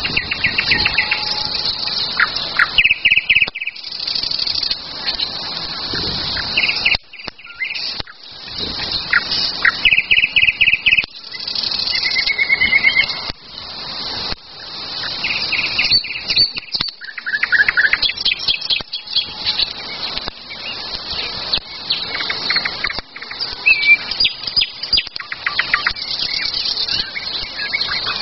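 Several songbirds singing at once in spring woodland: rapid trills and short repeated chirps overlapping, one phrase after another.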